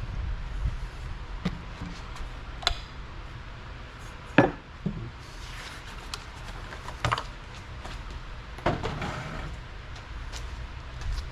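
Scattered clanks and knocks of metal tools and mower engine parts being handled and set down, about half a dozen separate hits with the loudest about four seconds in, over a low rumble.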